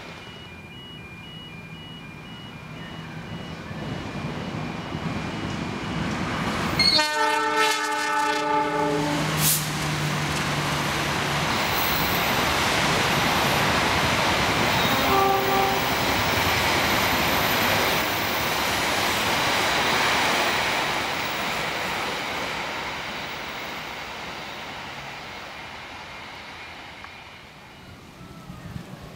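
An Indonesian diesel-hauled passenger express passes at speed. A loud multi-note air horn blast sounds about seven seconds in, with a shorter horn tone a few seconds later. The rushing rumble of the carriages' wheels on the rails builds, peaks and fades away over the following twenty seconds.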